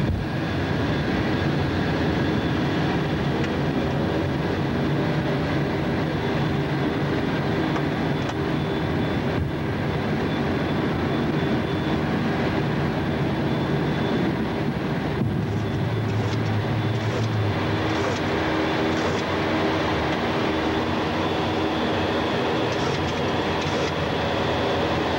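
Steady drone of a jet aircraft in flight, the E-3D Sentry's engines, with several steady tones running through it. The sound shifts about fifteen seconds in, with a stronger low hum for a couple of seconds.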